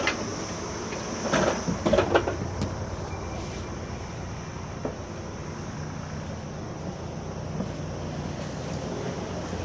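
Double-decker bus engine running with a steady low hum, with a high whine that fades out in the first few seconds and a few short knocks and rattles about one to two seconds in. This engine-on running goes with a loud weird sound that is heard only while the engine is on.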